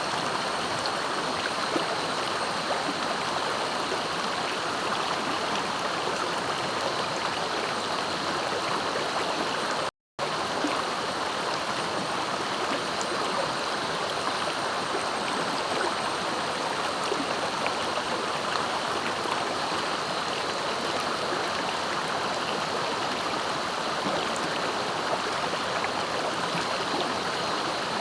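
A clear, fast-flowing river rushing and gurgling steadily over its bed. The sound drops out for a split second about a third of the way through.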